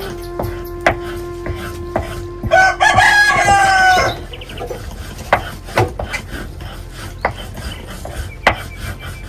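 A rooster crows once, about two and a half seconds in, lasting about a second and a half, over a steady low tone and scattered sharp taps.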